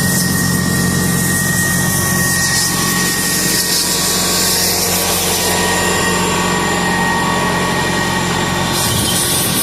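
A motor running steadily and loudly, with a constant high whine over a low hum.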